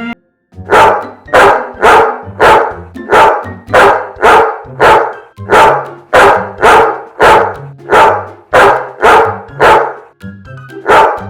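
Small dog, a Bichon Frise, barking over and over in a steady rhythm of about two barks a second, with music underneath.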